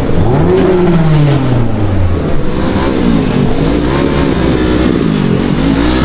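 Car engine revving: one long rev that climbs and falls back over the first two seconds, then several shorter revs rising and falling.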